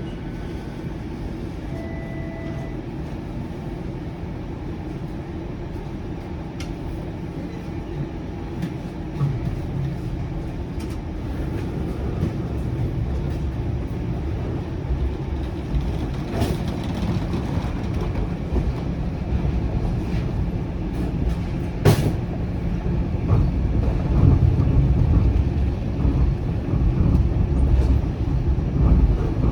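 Low-floor Flexity Outlook light-rail streetcar running, a steady low rumble that grows louder from about eight seconds in. A brief beep sounds about two seconds in, and two sharp clacks come near the middle and about two-thirds of the way through.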